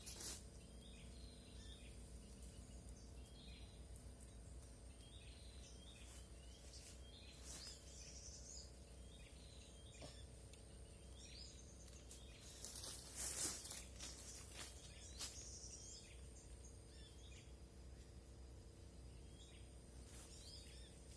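Faint forest ambience: small birds give short, repeated chirps about once a second over a steady high insect drone, with a brief rustle about thirteen seconds in.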